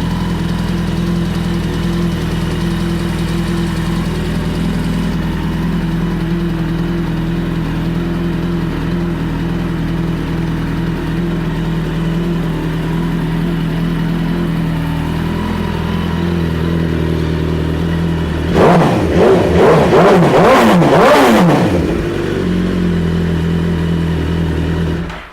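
2007 Suzuki GSX-R1000's inline-four engine idling steadily, then revved several times in quick succession about three-quarters of the way through before settling back to idle.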